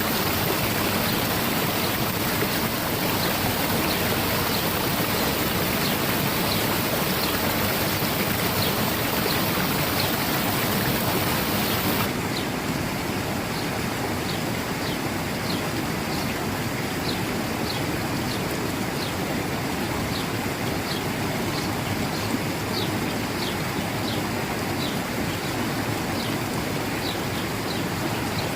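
Spring water flowing steadily in an even rushing hiss, with short high chirps repeating about once a second over it. About twelve seconds in the water sound changes abruptly, losing much of its upper hiss.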